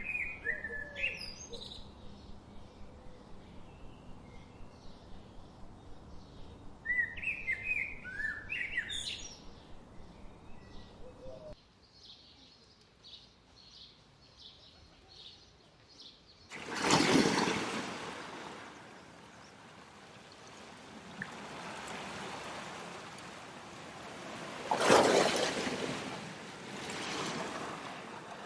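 Birds singing: short phrases of quick whistles rising and falling, over a steady chirp repeated about twice a second. About twelve seconds in the birdsong drops away. After that, rushing water swells up loudly twice, once about seventeen seconds in and once near twenty-five seconds, like surges of waves or a stream.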